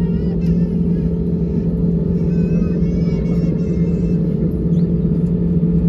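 Airbus A320 cabin noise while taxiing: a steady low rumble with a constant hum throughout.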